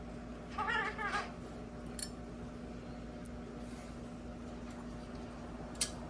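A cat meows briefly, a wavering two-part call about half a second in. A couple of sharp clicks follow later, over a steady low hum.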